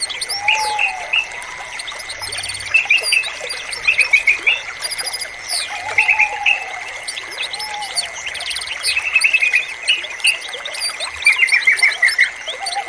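Dense chorus of songbirds with yellow-vented bulbul (trucukan) song among them: short quick note bursts recurring every second or two, occasional lower slurred whistles and many high chirps. A thin steady high tone runs underneath.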